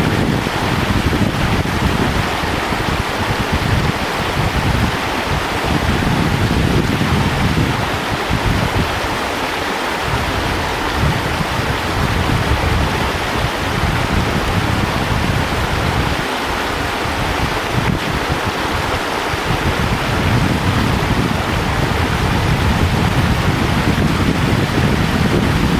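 Wind buffeting the microphone in irregular gusts over a steady rush of river water.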